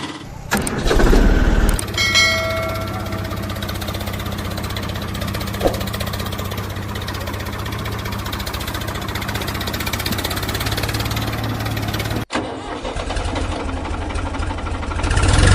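Tractor engine starting with a loud surge, then running steadily. It cuts off abruptly a little after twelve seconds and is followed by a similar engine sound that swells near the end.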